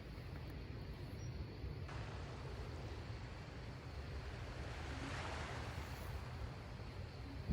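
Seaside ambience: wind rumbling on the microphone over the steady wash of sea waves, swelling about five seconds in. A short knock right at the end.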